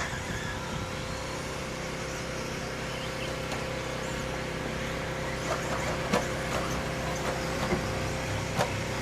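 Electric 1/10-scale RC off-road racing trucks running laps, a steady motor whine over a constant noise. A few sharp clacks come in the second half.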